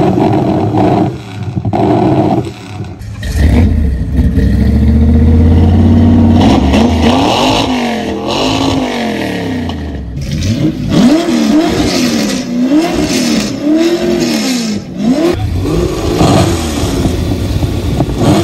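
Classic hot rod's engine being revved hard for a revving contest: held high for a few seconds, then blipped up and down over and over, about once a second.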